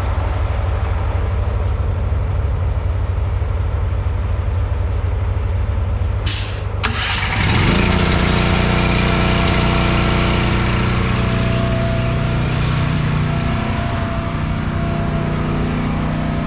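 Heavy diesel engine idling. About six seconds in there is a short hiss of air, then the engine note rises and settles into a louder, steadier run.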